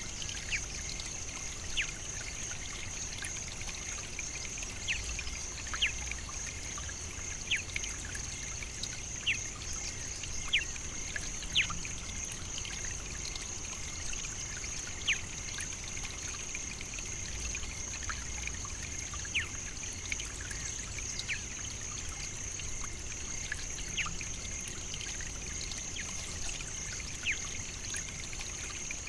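African savannah nature ambience: a steady high-pitched hiss runs throughout, with short, sharp bird chirps scattered irregularly every second or two.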